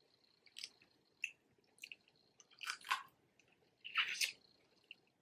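Close-up eating of snow crab legs: a string of short, wet chewing and biting noises, the longest and loudest about three and four seconds in.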